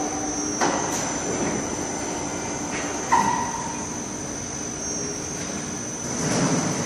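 Foundry machinery running: a steady high-pitched whine over a constant din, with two metallic clanks, one under a second in and one about three seconds in, the second ringing briefly.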